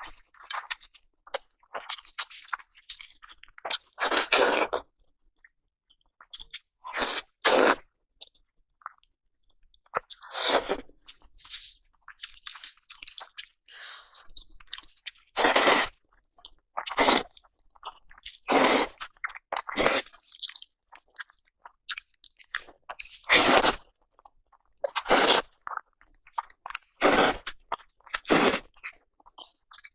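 A person biting and chewing crunchy food: loud, crisp crunches at uneven gaps of one to a few seconds, with softer chewing between them.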